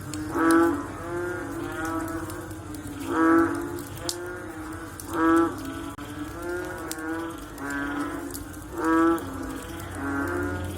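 Frogs calling in a chorus: a strong croaking call comes every two seconds or so, with fainter calls from other frogs overlapping in between.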